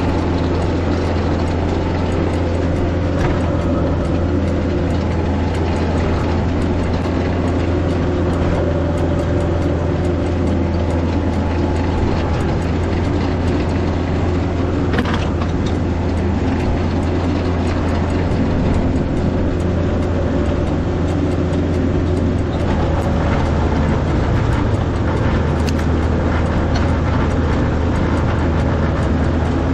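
Tractor engine running steadily, a low even hum with no let-up.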